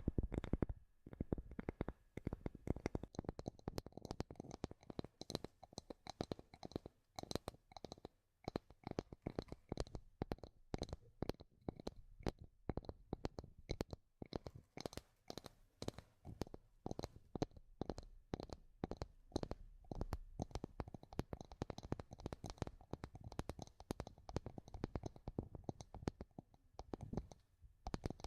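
Rapid tapping on wood: many sharp light taps, several a second, in quick irregular runs with short pauses.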